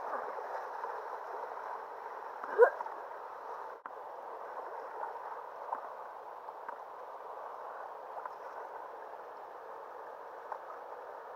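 River water rushing and gurgling steadily, with one short loud sound about two and a half seconds in.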